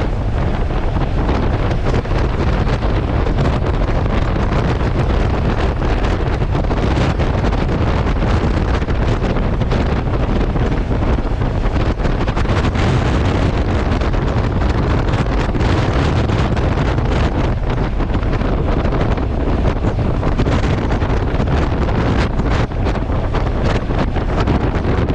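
Heavy wind buffeting a motorcycle-mounted GoPro's built-in microphone at riding speed, a steady loud rumble that buries the Honda NC750X's engine.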